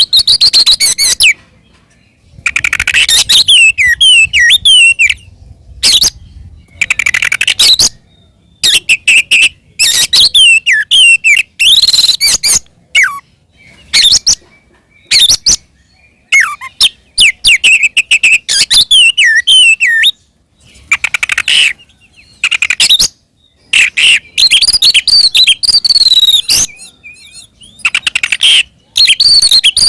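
Oriental magpie-robin (kacer) singing loudly in repeated bursts of fast whistles, trills and scratchy notes, each a second or two long with short breaks between. This is the full, aggressive 'fighting' song.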